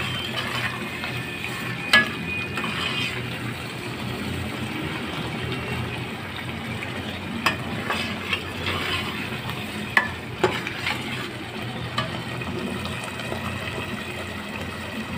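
Palak keema (spinach and minced meat) sizzling steadily in oil in a pot while a steel spoon stirs it, the spoon clicking against the pot a few times. This is the final frying (bhuna) stage, with the oil separating and rising to the top.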